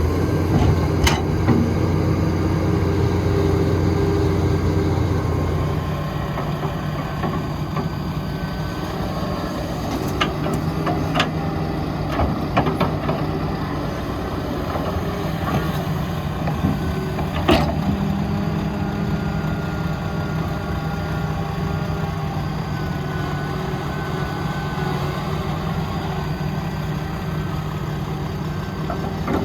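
Heavy diesel construction machinery running, loud for the first six seconds or so and then settling lower, with a few sharp metallic clanks.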